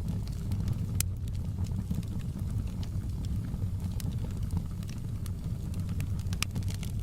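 Wood fire burning in a fireplace: a steady low rumble of flame with scattered sharp crackles and pops, one louder pop about a second in.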